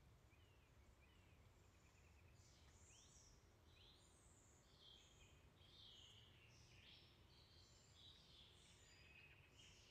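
Faint outdoor background with a low rumble and small birds chirping. The chirps come thick and fast from about two seconds in.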